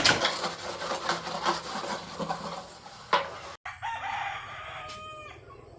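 A clatter of knocks for the first three seconds or so. After a sudden cut, a rooster crows once, its call falling in pitch at the end.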